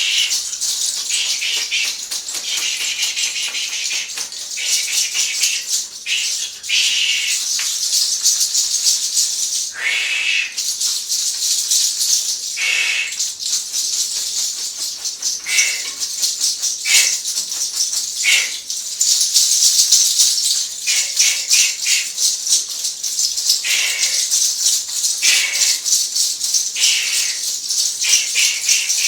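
Dense rustling and rattling shake goes on throughout, with a short swish every second or two.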